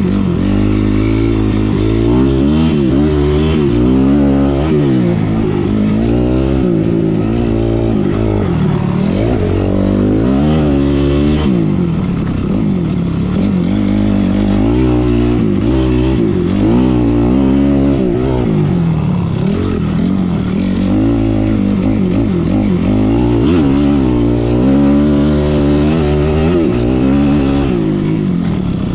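Motocross dirt bike engine revving hard, its pitch climbing and dropping over and over as it accelerates and backs off.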